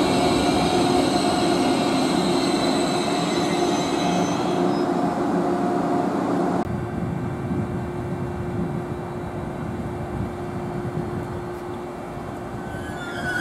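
Train running past on the rails, a steady rumble with a high whine that fades as it goes. The high tones drop out about halfway through, and a brief wavering squeal comes near the end.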